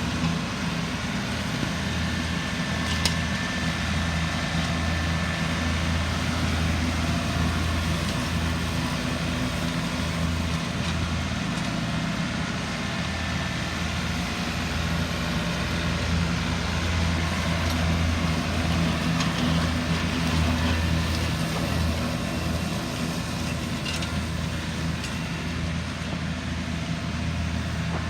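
Compact John Deere tractor engine running steadily at an even speed, a low hum that holds constant, with a few faint clicks.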